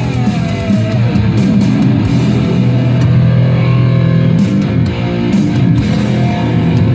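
Loud rock music with distorted electric guitar and drums, a guitar note bending down in pitch about a second in.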